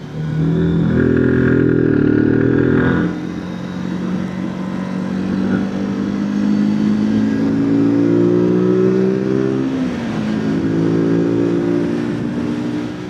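Zontes 125 motorcycle's single-cylinder engine accelerating through the gears. The revs climb, drop at a gear change about three seconds in, climb steadily again, and dip at another shift about ten seconds in.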